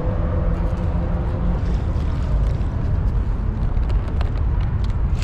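Steady low rumble of highway traffic on the Interstate 35 bridge overhead.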